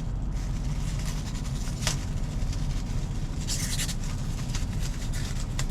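Steady low hum of an idling engine, with a sharp click about two seconds in and a brief rustle of handling a little later.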